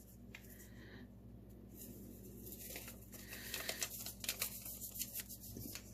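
Faint crinkling and rustling of packaging being handled, with light clicks that get busier about halfway through.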